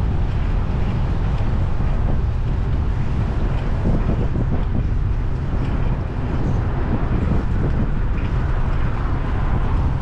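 Wind rumbling steadily on the microphone of a moving bicycle rider, over street traffic noise.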